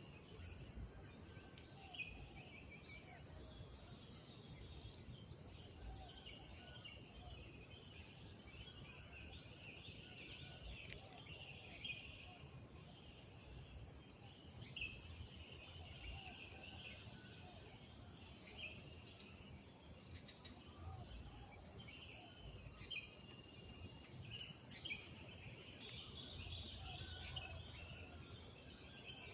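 Faint outdoor morning ambience: birds chirping and calling in short scattered phrases over a steady, high-pitched drone of insects, with a faint low rumble underneath.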